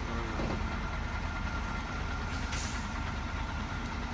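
Heavy diesel truck engine running steadily at low revs, with a short hiss about two and a half seconds in.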